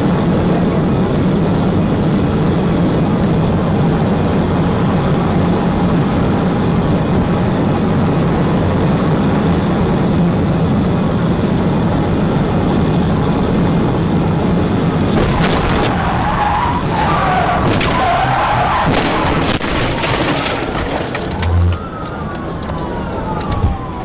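A police patrol car driven hard at high speed: a steady loud engine and road drone, then about fifteen seconds in a stretch of tyre squeal and sharp knocks lasting several seconds. Near the end a police siren wails, rising and falling.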